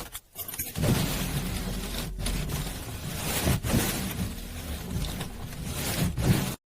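Car engine being cranked over in freezing cold, a harsh noisy grinding that stops abruptly near the end.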